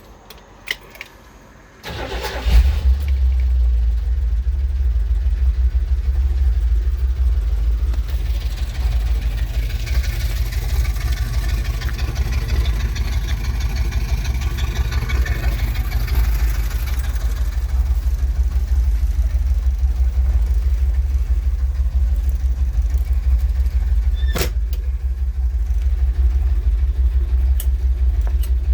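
1970 Ford Bronco's 302 V8 being started about two seconds in, after a couple of clicks. It then runs with a steady low rumble, and there is a single sharp click late on.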